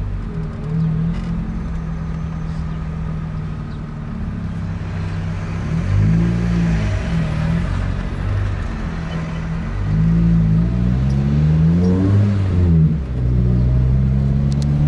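Car engine heard from inside the cabin, running steadily, then picking up speed with its pitch rising and falling as it goes through the gears, about six seconds in and again from about ten to thirteen seconds. The car is a VAZ-2114 (Lada Samara).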